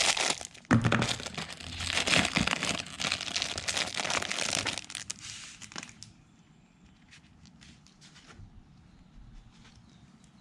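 Plastic packaging crinkling and tearing as a new oil-filter O-ring is unwrapped. The crinkling stops about six seconds in, leaving only a few faint ticks of handling.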